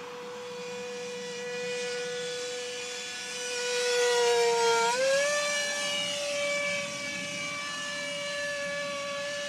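Electric ducted fan (64 mm impeller) of a model jet in flight, giving a steady high whine. It grows louder towards the middle, sags slightly in pitch, then steps up to a higher steady pitch about five seconds in.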